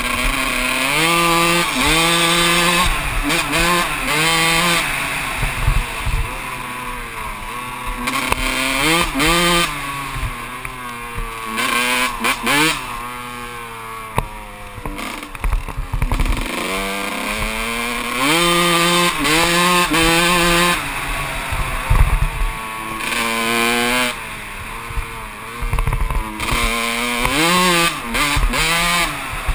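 Kawasaki KX125 two-stroke dirt bike engine being ridden hard, its pitch climbing and falling again and again every few seconds as the throttle is opened and shut.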